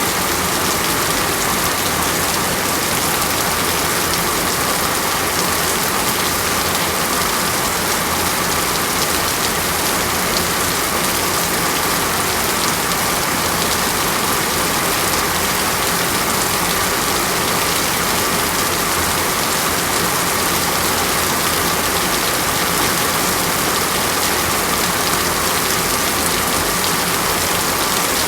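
Steady, dense rain falling on a surface, a continuous hiss full of fine drop patter.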